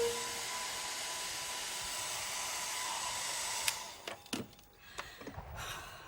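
Hand-held hair dryer blowing steadily, then switched off with a click a little over halfway through, followed by a few light knocks as it is handled and put down.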